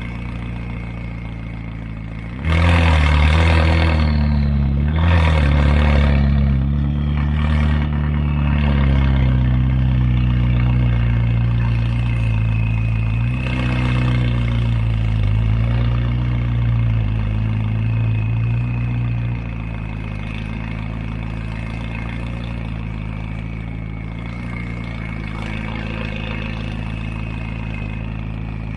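McLaren 570S twin-turbo V8 running through an FI Exhaust full system with catless downpipes, blipped several times in the first half, then settling to a steady, quieter idle about two-thirds of the way in.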